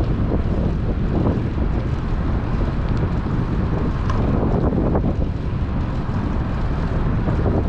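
Strong wind buffeting the microphone of a GoPro on a moving bicycle: a loud, steady, low rumbling rush.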